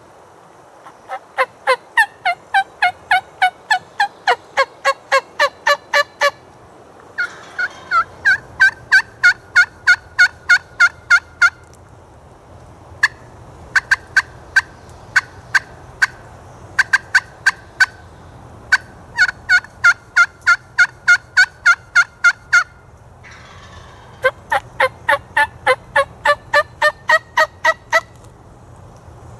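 Turkey yelping in five long runs of sharp, evenly spaced notes, about three to four a second, with short pauses between runs.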